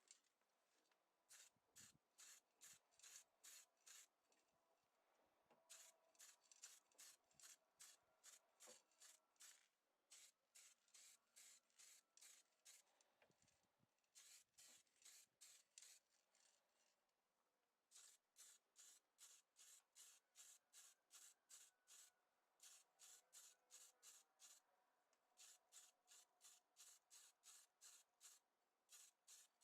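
Quick back-and-forth rubbing strokes on a surface, about four a second, in runs of a few seconds with short pauses between them.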